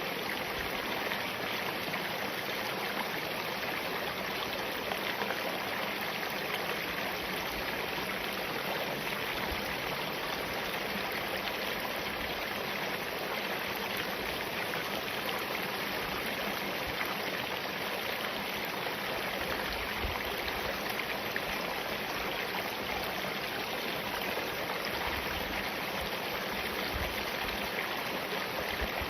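Spring-fed mountain stream running steadily over rocks.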